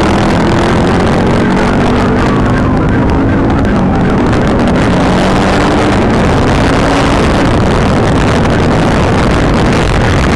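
A car driving fast, with loud, steady road and wind noise; an engine note slowly rises in pitch for the first several seconds as the car accelerates.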